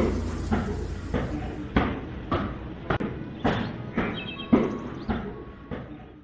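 A steady series of dull thumps, about two a second, fading near the end.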